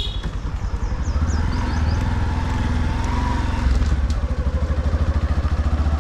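Motorcycle engine running while riding, a low, evenly pulsing throb.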